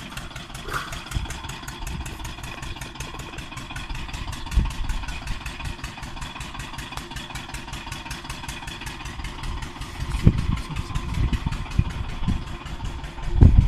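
An engine running steadily at idle with an even, fast beat, with a few low rumbles near the end.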